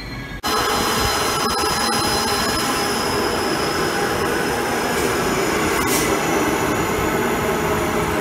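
Transperth B-series electric train moving along an underground station platform: a loud, steady running noise of wheels on rail with several steady high-pitched whining tones over it. The sound starts abruptly about half a second in.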